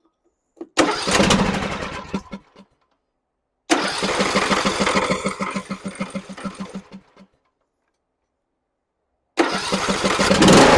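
John Deere E100 riding mower engine cranked on its starter: a short try, then a longer try with an even pulsing rhythm, both stopping. A third try about nine seconds in catches and keeps running.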